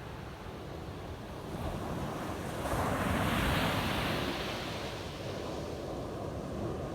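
Ocean surf on a beach: a wave breaks and washes in, swelling about two seconds in, loudest around three to four seconds, then easing back to a steady wash.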